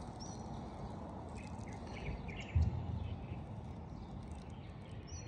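Steady background noise with a few faint, short bird chirps, and a brief low thump about two and a half seconds in.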